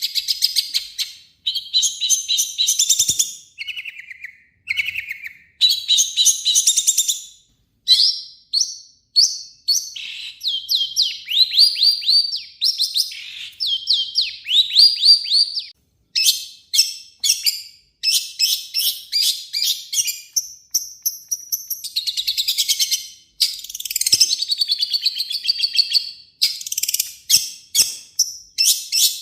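Long-tailed shrike (cendet) singing loud, fast, harsh chattering phrases: rapid repeated sharp notes and trills, broken by short pauses.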